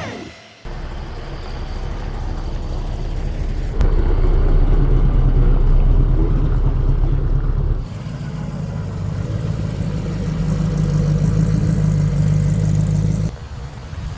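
Hot rod engines running with a low, loud rumble, in three short back-to-back clips that cut from one to the next, each holding fairly steady.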